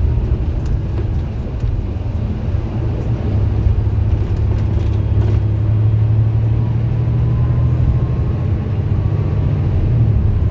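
MAN bus engine running while the bus is under way, a steady low drone that grows louder about three seconds in and holds.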